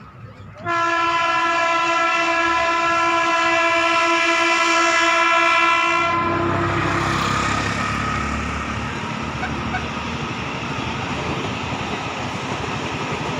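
A train horn sounds one long, steady blast of about five seconds. It is followed by the rumbling noise of a train running along the tracks.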